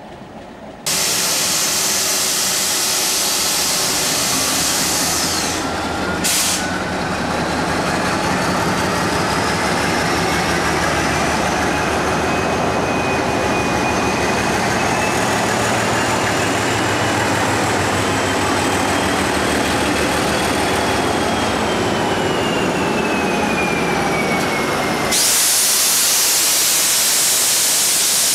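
Train running at close range: a loud, steady rumble and rush with a whining tone that rises slowly, then falls. About 25 seconds in it gives way abruptly to an even rushing hiss.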